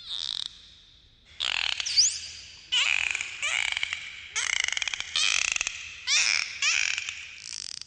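Dolphins calling: a quick series of about nine buzzy, pulsed squawks, each about half a second long, with a short rising whistle about two seconds in.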